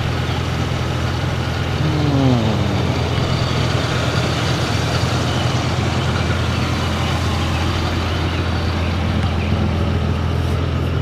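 Toyota Supra's engine idling steadily, with a brief falling tone about two seconds in.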